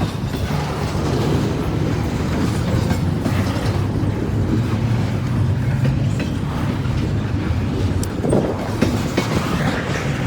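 Freight train cars rolling past in a steady low rumble, with wheels knocking and clacking over the track at a crossover.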